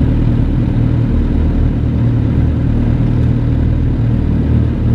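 Motorcycle engine running steadily at a low, even pitch, with no revving.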